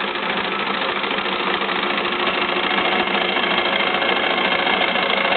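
Model Stirling engine running at a steady fast speed, a busy mechanical whirring and clatter of its small moving parts, growing slightly louder over the few seconds.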